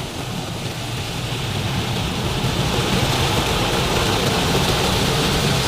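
Automatic tunnel car wash heard from inside the car's cabin: water and washing machinery beating on the bodywork in a steady hissing, rumbling wash that grows louder over the first couple of seconds, very loud inside the car.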